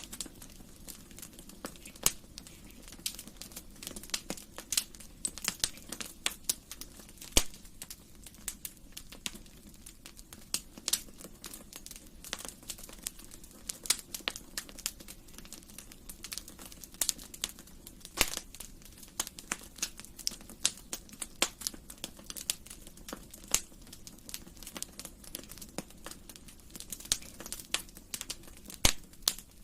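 Wood fire in a fireplace crackling, with an irregular stream of sharp pops and snaps over a soft low rumble of the flames.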